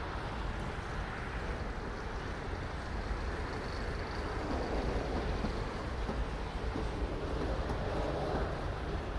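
Freight train cars rolling past with a steady rumble of steel wheels on the rails.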